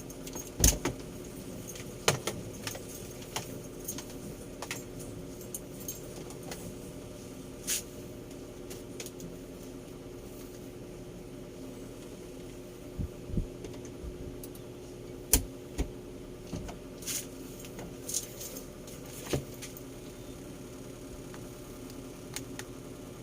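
Scattered clicks and knocks from salon hair tools and their cords being handled while they are checked for whether they work, over a steady low hum.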